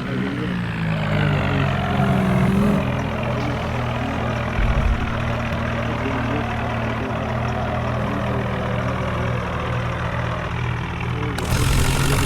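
Vehicle engine running steadily, turning louder and harsher about eleven seconds in.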